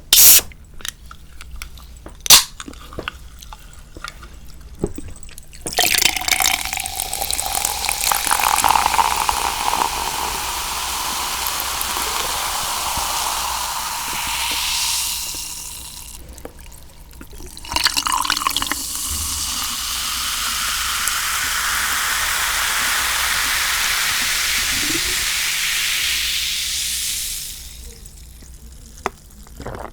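Liquid poured into a glass or container in two long pours, the ringing of the vessel rising in pitch as it fills. Two sharp clicks come just before.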